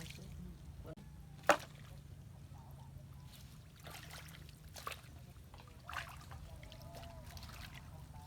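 Water trickling and splashing, with one sharp knock or splash about one and a half seconds in and a few smaller splashes later, over a steady low rumble.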